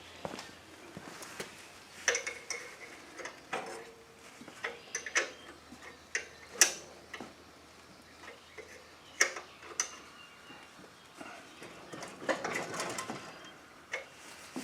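Irregular metallic clicks and clinks from a hand wrench working on a lawn mower's oil drain plug, screwing it back into the drain outlet.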